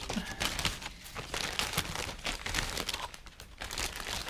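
Plastic packaging crinkling and rustling as it is handled and pulled open, in quick irregular crackles.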